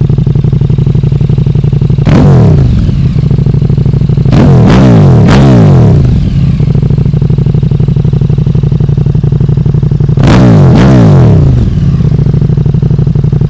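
KTM 1290 Super Duke R's V-twin engine idling loudly through a full Akrapovic Evo 2 titanium exhaust with the baffle removed. The throttle is blipped three times, the middle rev the longest, each rise falling back to idle. The revs are kept well short of the limiter because the engine is still being run in.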